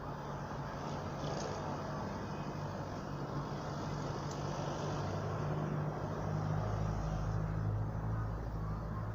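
A motor vehicle's engine running with a steady low hum, growing a little louder about two-thirds of the way through.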